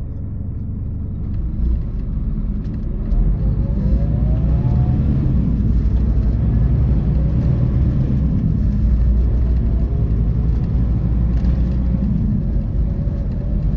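Scania K450EB coach's diesel engine and road noise heard from inside the bus as it accelerates: a rising whine climbs for a couple of seconds about a quarter of the way in, then settles into a steady drone.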